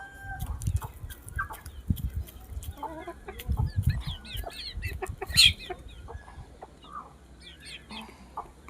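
Chickens clucking and calling in short, quick notes, busiest in the middle, with one sharp louder call about five and a half seconds in. Low thumps run underneath.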